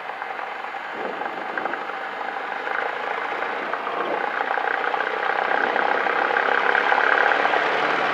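Cessna 172's piston engine and propeller growing steadily louder as the throttle is opened toward full power for the takeoff roll.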